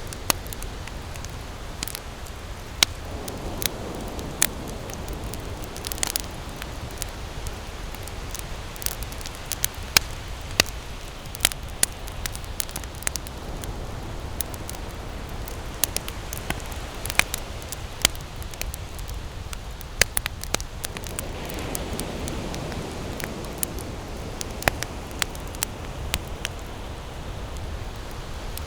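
Wood campfire burning, crackling with irregular sharp pops scattered through, several a second at times, over a steady low rumble and hiss.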